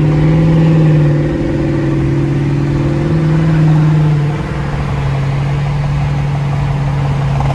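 Car engine and exhaust droning steadily while driving at speed, heard from inside the car's cabin, with small rises and falls in engine pitch as the throttle changes.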